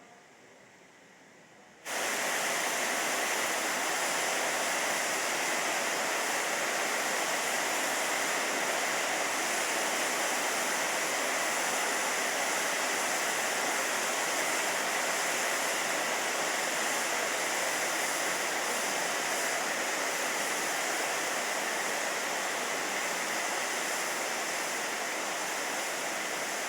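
Steam locomotive 80097, a BR Standard Class 4 tank engine, letting off steam: a loud, steady hiss that starts abruptly about two seconds in and holds without a break.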